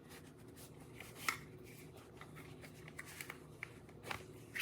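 Hands handling small objects: scattered light clicks and rustling, with one sharper click about a second in and a few more ticks near the end.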